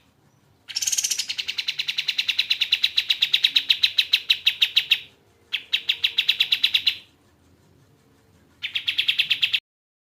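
Kapas tembak bird calling in rapid trills of evenly repeated notes, one long burst of about four seconds, then a shorter one, then a brief one near the end.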